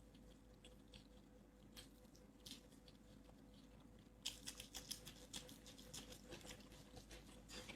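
Faint eating sounds: soft wet smacks and clicks of chewing and handling food, scattered at first and coming thick and fast about four seconds in.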